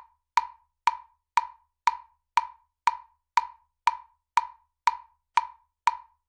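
Metronome ticking steadily at about two clicks a second, each a short, sharp wood-block-like click.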